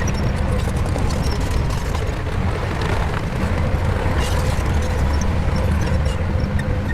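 Shantui bulldozer's diesel engine running steadily under load, a deep, even rumble with faint scattered clicks above it.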